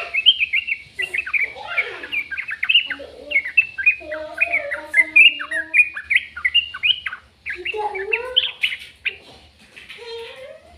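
Bird chattering: a fast, unbroken run of short chirps, mixed with some lower, longer notes now and then.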